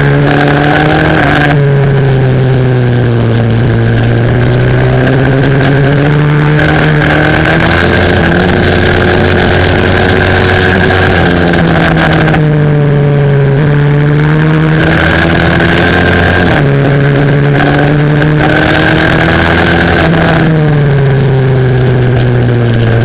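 A 140cc pit bike engine heard onboard at racing speed, its pitch climbing under acceleration and dropping sharply every few seconds at gear changes and braking for corners.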